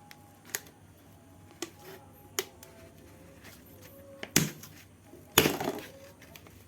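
Scattered clicks and knocks of tools and parts being handled during work on a car's rear suspension, with two louder clattering scrapes, a short one a little past four seconds in and a longer one about five and a half seconds in.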